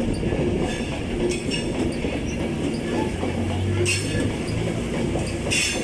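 An InterCity 225 electric train's coaches rolling past as it pulls out, a steady rumble of wheels on rail, with a few short high-pitched squeals.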